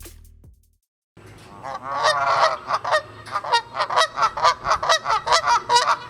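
Goose honking: a rapid, continuous run of calls, about four or five honks a second, starting about a second in.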